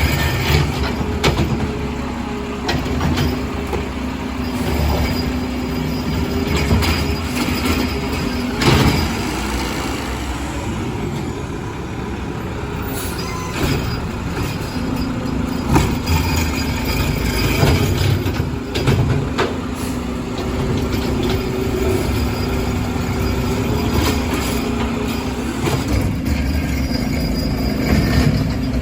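Diesel garbage truck running on its collection route, with intermittent sharp knocks and clanks over the steady engine drone.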